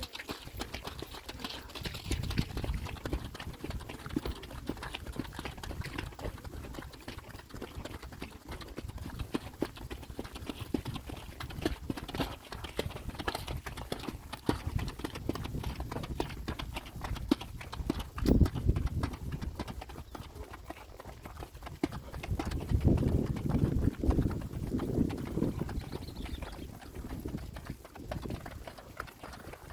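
Horses' hooves clip-clopping steadily during a horseback ride, with louder low rumbling stretches about two-thirds of the way through.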